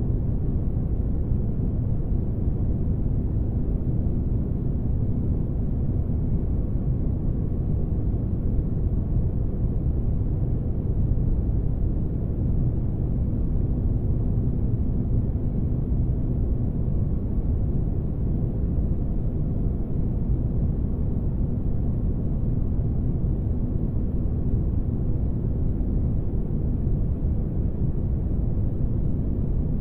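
Spaceship ambience: a steady, deep rumbling noise with a faint even hum over it, with no change in level or pitch.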